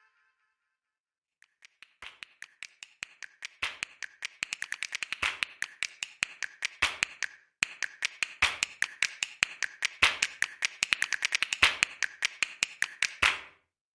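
A rapid run of sharp taps, several a second, starting after about two seconds of silence, growing louder and denser, and stopping just before the end.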